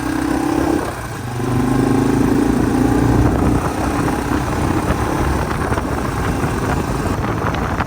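Yamaha TW200's single-cylinder four-stroke engine running as the bike is ridden; the engine note dips about a second in, then picks up again.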